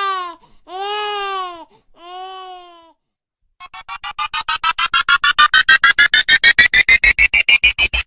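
Sound-effect infant crying in three wails, then after a short pause a rapid string of electronic beeps, about eight a second, climbing steadily in pitch.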